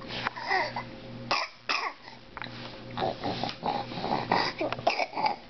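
Baby making a run of short coughs and throaty vocal noises while being fed cereal, about a dozen brief bursts with small gaps between them.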